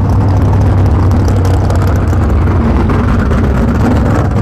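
Large vehicle engine running loud and steady at close range, with a deep low hum under a broad noise.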